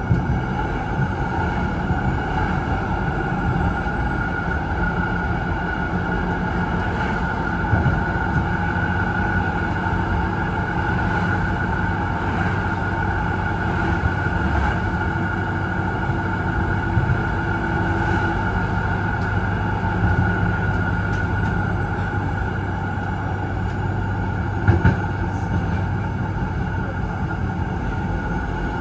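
Z3-class tram running along the track, heard from on board: a steady rumble of wheels on rail under a steady hum of several tones, with a few short knocks along the way.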